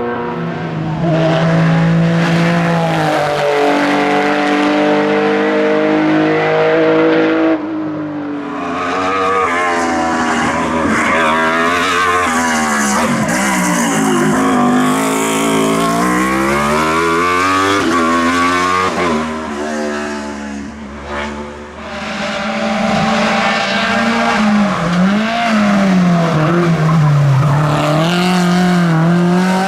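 Historic racing cars running a hillclimb one after another. Each engine revs up hard, drops in pitch at gear changes and dips as it brakes for corners, with the sound changing abruptly between cars.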